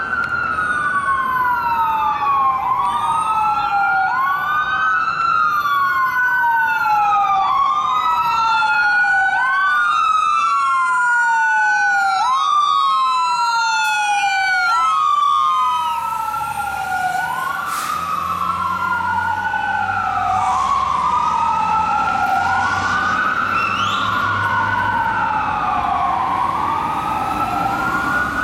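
Fire engine's dual Whelen electronic sirens wailing, each tone rising and falling between low and high about every two seconds, with two wails overlapping out of step in the middle. Partway through the truck passes and the diesel engine's low rumble comes in under the sirens.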